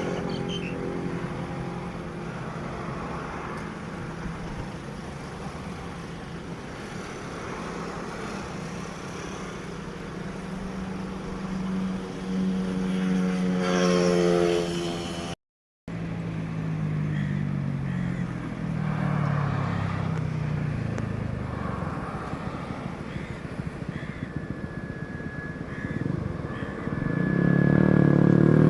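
Engine noise from passing vehicles, rising and falling in pitch, cut off sharply for a moment about halfway through. A steady high whine comes in after about 24 seconds, and the engine sound grows louder near the end.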